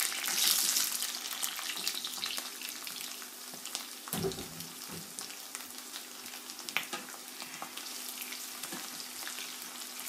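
Chopped onion, garlic and chilies sizzling in hot oil in a frying pan, loudest just as they are tipped in, then a steady sizzle with scattered clicks of a slotted spatula stirring against the pan. A dull knock about four seconds in.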